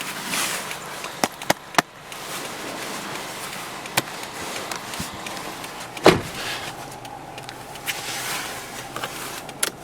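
Clicks and knocks of car-interior controls being worked. Three sharp clicks come about a second in, another near four seconds, and a heavier knock around six seconds, over a steady soft hiss.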